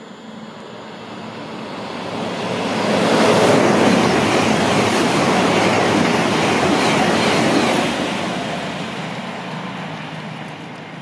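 Express passenger train running through the station at speed without stopping: a rush of wheel and air noise that builds, stays at its loudest for about five seconds as the coaches go by, then fades away.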